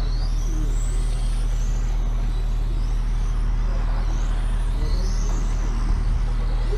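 Motorcycle engines revving up and falling off repeatedly as bikes lap a race circuit, over a steady low hum.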